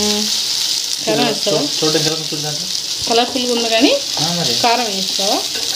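Chopped tomato and onion frying in oil in a non-stick kadai, sizzling steadily on low flame while a wooden spatula stirs and scrapes through the masala. A voice is heard in the background.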